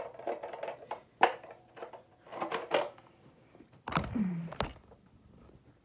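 Handling noises: a few sharp clicks and knocks and short rustles, with a sharp click about a second in and another near the end.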